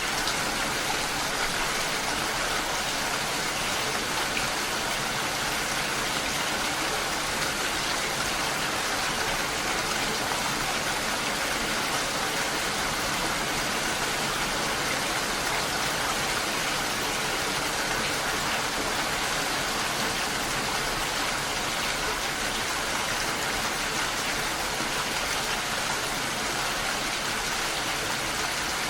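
Steady rainfall, a dense even hiss that holds at the same level throughout.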